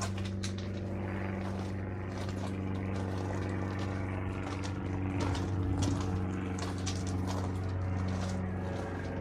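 An engine running steadily, a low even hum with faint clicks and rustles over it.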